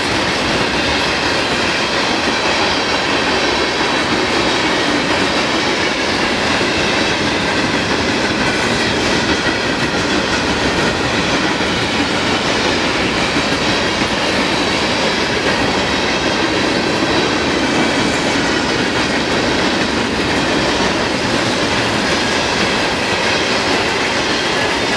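Freight train cars rolling past on the rails, a steady unbroken rolling noise of wheels on track.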